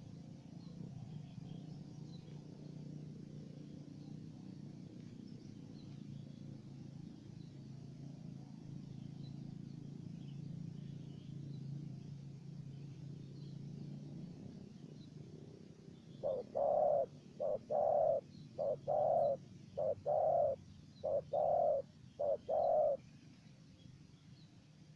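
Spotted dove cooing: a loud run of about nine short, low coos, starting about two-thirds of the way in, over a faint low rumble.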